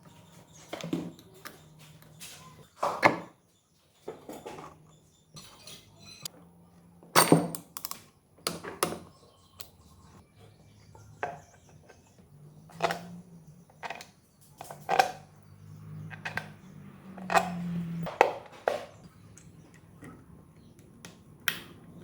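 Hand tools and metal parts clinking and knocking in irregular, sharp strikes, some loud, as an engine is worked on.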